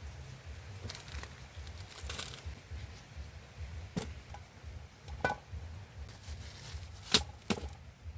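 Scattered sharp knocks and snaps of wood being handled, a few single strikes followed by a louder pair close together near the end, over a steady low rumble.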